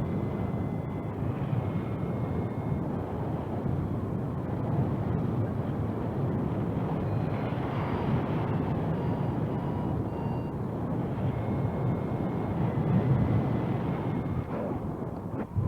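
Wind rushing and buffeting over the microphone of a paraglider pilot flying in strong wind, a steady low rumble, with faint thin tones coming and going.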